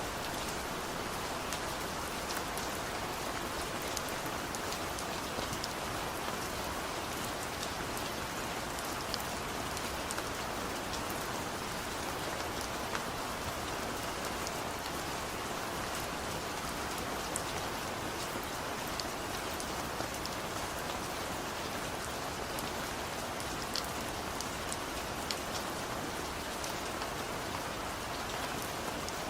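Steady rain falling, an even hiss with many small, sharp drop ticks mixed in.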